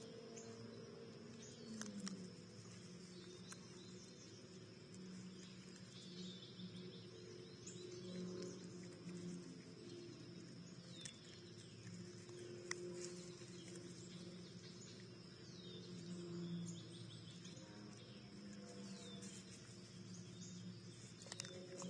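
Faint backyard birds chirping: short downward-sliding calls scattered every second or two, over a steady high hum and low sustained tones.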